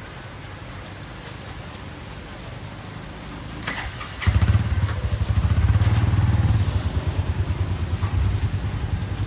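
An engine starts up about four seconds in and keeps running with a loud, low, rapid throb, over a steady hiss.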